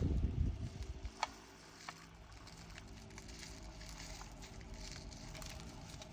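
Small resin diamond-painting drills clicking and pattering as they are handled and poured into a storage pot, with a brief handling rustle at the start and scattered single clicks after.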